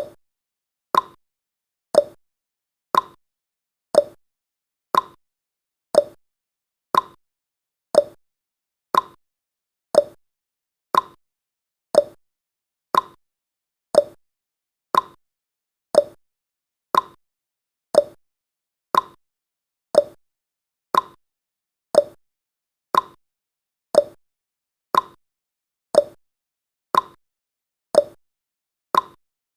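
Countdown timer's ticking sound effect, one short sharp tick each second. The ticks alternate slightly between a higher and a lower pitch, like a tick-tock.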